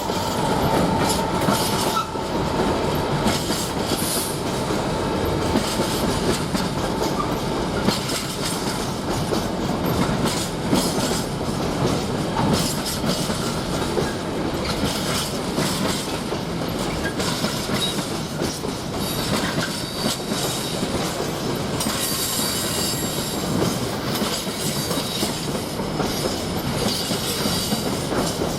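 A freight train's mostly empty container flat wagons rolling steadily past, the wheels clicking over rail joints in a clickety-clack, with a high wheel squeal joining in over the last few seconds.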